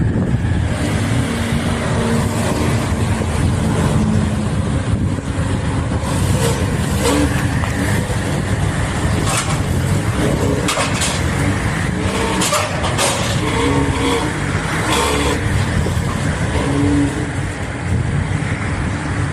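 A motor vehicle engine runs steadily with a low rumble. Several sharp metallic clanks come in the middle, as the car is loaded onto a car transporter.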